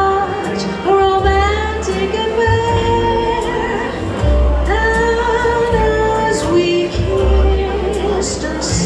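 A woman singing a slow ballad over a backing accompaniment with a steady bass, holding long notes with vibrato.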